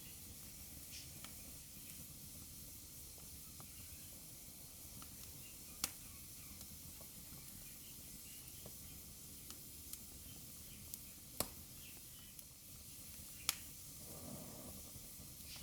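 Wood fire burning in a fireplace, with a soft steady hiss and scattered crackles; three sharp pops stand out, about six, eleven and thirteen seconds in.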